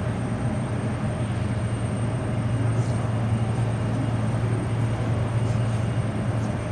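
Jet aircraft engines running steadily at the airport: an even low rumble with a faint, constant high whine over it.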